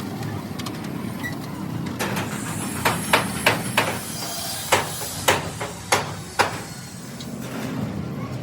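A run of about eight sharp hammer blows, roughly half a second apart and the loudest sounds here, over a steady low hum of workshop noise.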